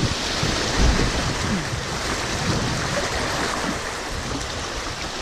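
Steady rushing of shallow spring-run rapids around a canoe, with low buffeting on the microphone about a second in.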